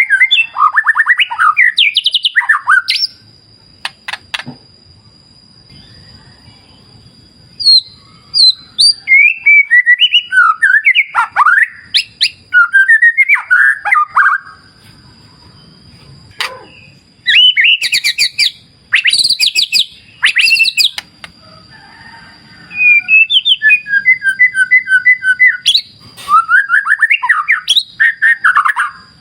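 White-rumped shama (murai batu) singing in about five loud bursts of rapid, varied whistled phrases, each a few seconds long, with short pauses between.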